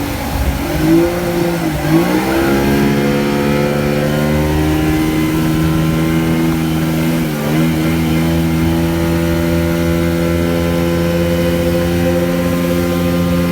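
Motorboat engine running steadily at speed, its pitch dipping briefly twice and coming back up.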